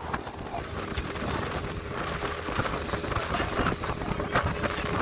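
Motorboat under way: its engine runs steadily under wind buffeting the microphone.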